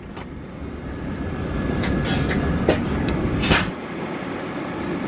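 Handling noise on a Volvo VNL semi truck: several clicks and knocks of latches and panels over a low rumble. The loudest knock comes about three and a half seconds in, and the rumble drops away just after it.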